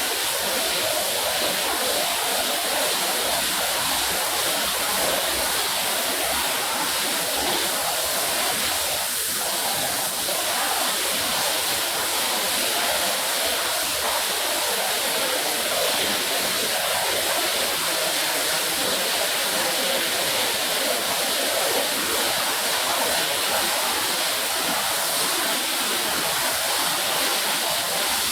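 Water spraying steadily onto a wet rug: a constant rushing hiss with no breaks.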